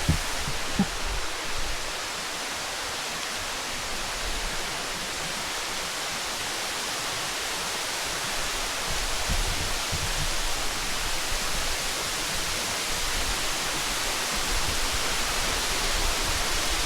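Steady rush of falling water from a rainforest waterfall and stream, growing slightly louder, with one sharp click about a second in.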